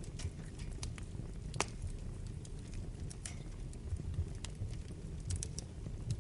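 Wood fire burning in a fireplace: irregular sharp crackles and pops over a low steady rumble, with one louder pop about one and a half seconds in.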